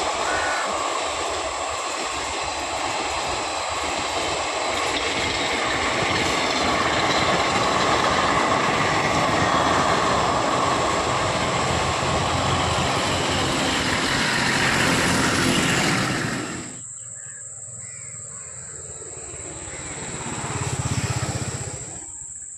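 Express passenger coaches running past at speed: a steady rumble and clatter of wheels on rail that builds to its loudest and then cuts off abruptly about sixteen seconds in. Quieter outdoor ambience follows, swelling briefly near the end.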